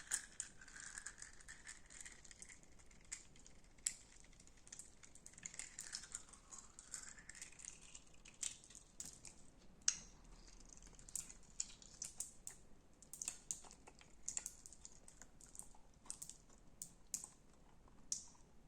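Slime being worked by hand, giving off a run of irregular sharp crackles and clicks, with a faint wavering squeak early on.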